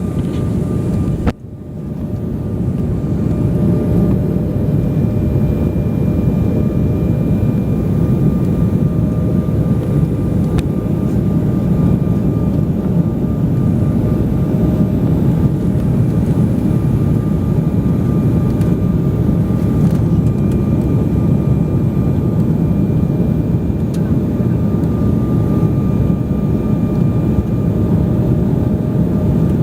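Steady roar of an airliner cabin in flight, mostly low rumble, with a faint constant whine from the engines. The sound cuts out briefly a little over a second in, then comes back up.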